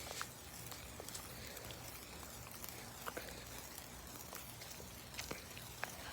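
Faint fizzing of a handheld sparkler, with a few scattered sharp crackles.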